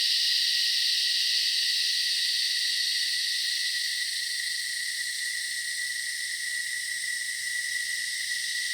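A chorus of cicadas buzzing steadily: a continuous high, shrill drone with a constant ringing tone underneath, easing slightly in loudness towards the end.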